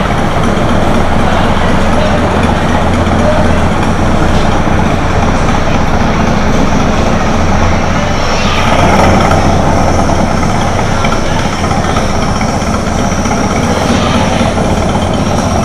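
Intamin motorbike roller coaster train rolling along its steel track, a steady loud rumble with a low hum underneath.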